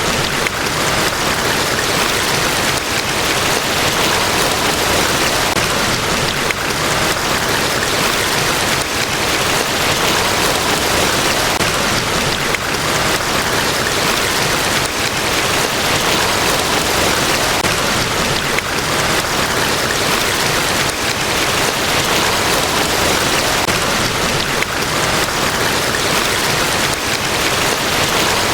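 Niagara Falls: the steady, dense rush of a large waterfall, unbroken and even in level.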